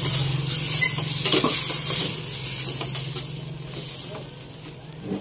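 Chicken pieces sizzling in a hot pan with freshly added fish sauce while being stirred, a utensil scraping the pan now and then. The sizzle is loud for the first two seconds, then dies down.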